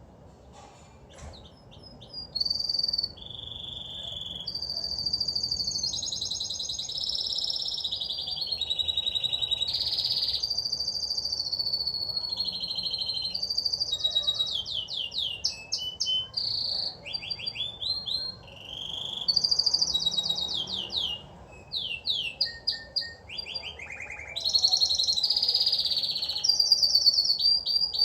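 A songbird singing a long, continuous, varied song of high warbles, held whistled notes and fast runs of sweeping chirps, starting about two seconds in.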